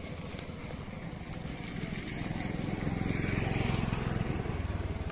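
A small engine running with a rapid low pulsing, growing louder about three seconds in and easing a little near the end, like a motor vehicle drawing near.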